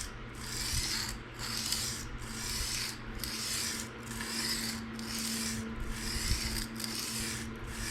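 A PM60 steel knife blade stroked freehand across a coarse diamond sharpening stone, a rasping scrape about once a second with short breaks between strokes. It is the bevel-setting stage, before a burr has formed.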